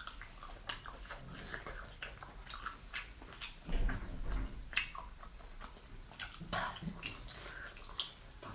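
A person chewing and biting into prawn close to the microphone: scattered small clicks and mouth sounds, with a louder low bump about four seconds in.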